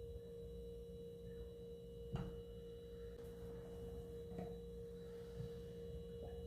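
A faint steady electrical hum tone, with two light clicks about two seconds and four and a half seconds in.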